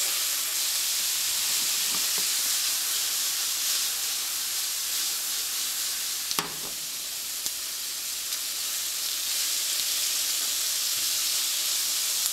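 Loud sizzling of asparagus sautéing in a nonstick frying pan with teriyaki sauce and minced garlic, a steady frying hiss while it is turned with metal tongs. A sharp knock sounds about six seconds in.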